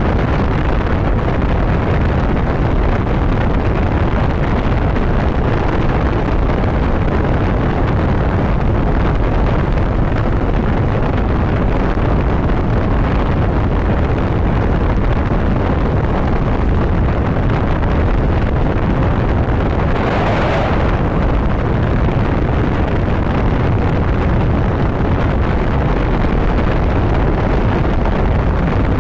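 Steady wind rush on the microphone of a motorcycle riding at road speed, with the engine and road noise underneath. About twenty seconds in there is a brief louder rush of noise.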